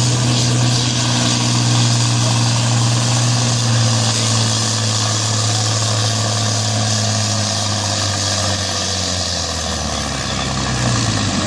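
A pulling tractor or truck's engine running loud and steady, its pitch dipping slightly about ten seconds in.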